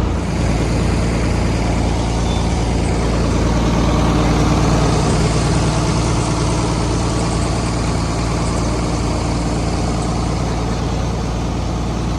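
A large engine idling steadily, with a low, even drone.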